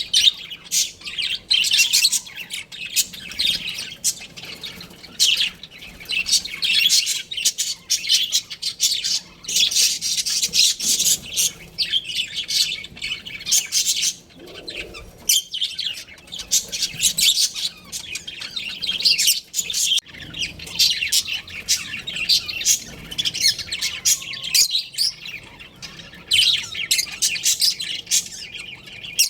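Budgerigars chattering and chirping continuously, a busy stream of rapid, high-pitched warbles and tweets with brief pauses.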